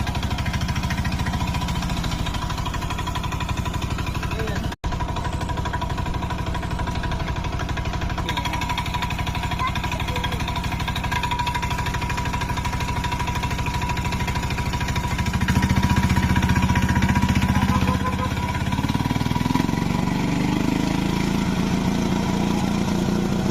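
An engine running steadily with an even low pulse. It cuts out for an instant about five seconds in and gets louder about fifteen seconds in.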